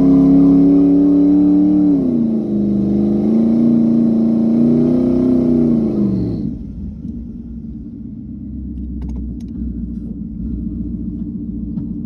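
Car engine running at a steady pitch. About two seconds in the pitch drops and then climbs slowly, and around six seconds it falls away to a lower, quieter steady rumble.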